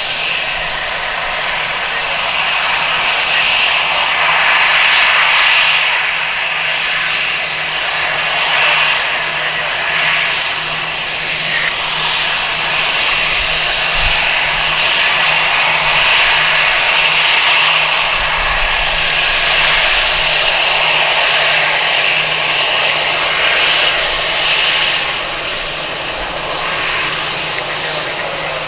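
Jet engines of a cargo airliner running loudly and steadily, a dense rushing noise with a low steady hum underneath, swelling a little at times.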